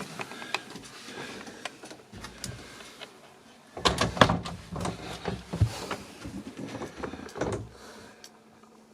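Irregular knocks, clicks and bumps of handling and movement in a small room, busiest and loudest in the middle stretch, like doors, drawers or footsteps on boards.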